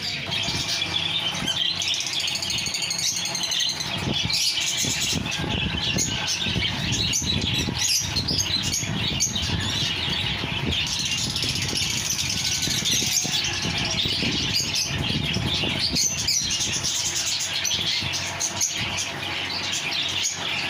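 A flock of caged budgerigars and lovebirds chattering and chirping all at once in a loud, continuous din.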